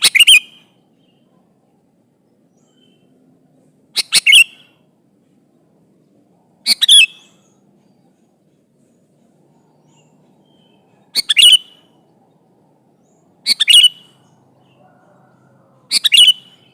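Sooty-headed bulbul (kutilang) calling: short bright phrases of a few quick notes, about half a second each, repeated six times at gaps of two to four seconds.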